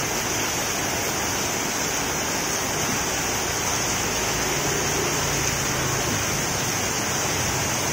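Heavy rain pouring down in a steady rush, hitting the street and running off the edge of an awning.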